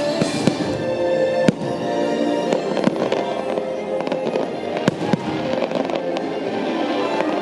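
Fireworks going off in scattered sharp bangs, the loudest about one and a half seconds in, over orchestral show music with long held notes.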